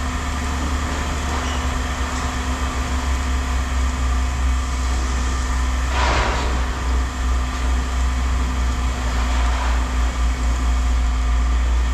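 Steady low mechanical hum from running machinery. A short hiss-like burst comes about six seconds in.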